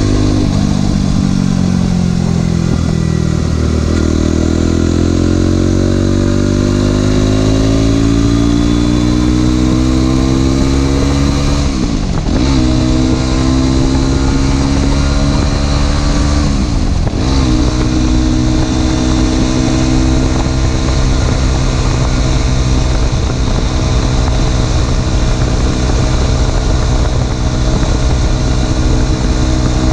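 Aprilia SX 125 supermoto's single-cylinder four-stroke engine through an Arrow exhaust with no dB killer, pulling under load with its pitch climbing slowly. Twice the pitch drops sharply and picks up again at gear changes, and after the second change the engine holds a steady cruising note.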